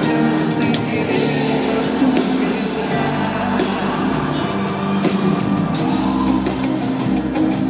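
Live band music in an instrumental passage: sustained instrument chords over a drum kit beat, with no clear lead vocal.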